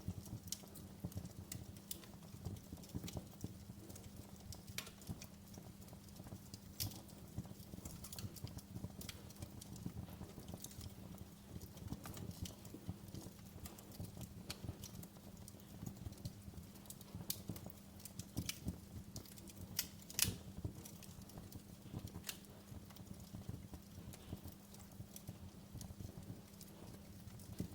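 Wood fire in a fireplace crackling, with many irregular sharp pops and snaps over a low steady rumble of the flames; one of the loudest pops comes about two-thirds of the way through.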